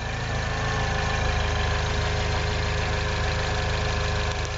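R56 Mini Cooper S's turbocharged four-cylinder engine idling steadily, with the exhaust V-band clamp just re-seated and aligned and no leak felt at the joint.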